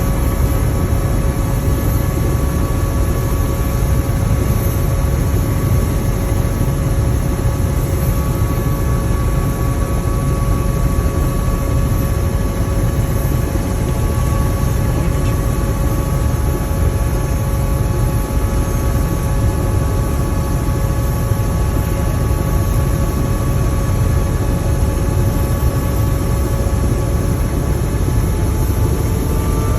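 Helicopter running steadily: a deep rotor rumble with a steady engine whine over it. Near the end the whine rises slightly in pitch.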